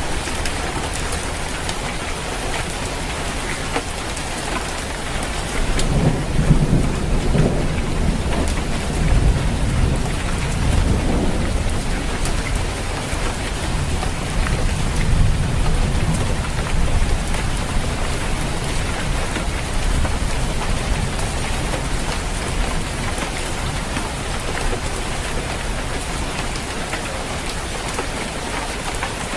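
Steady rain falling on a roof, with a low roll of thunder that rises about six seconds in and fades out by about twelve seconds.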